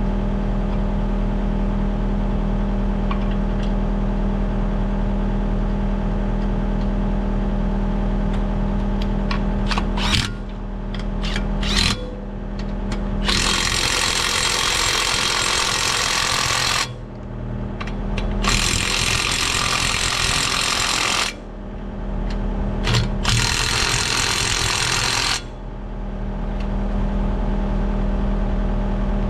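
An engine runs steadily, with a low hum throughout. A loud power tool cuts in three times, for two to four seconds each, about halfway through and again twice shortly after, with a few sharp clicks just before the first.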